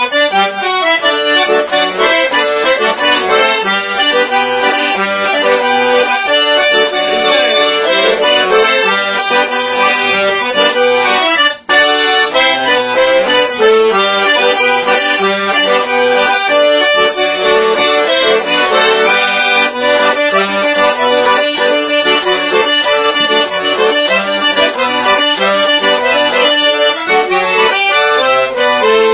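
Accordion playing a traditional-style tune, with a momentary break about twelve seconds in.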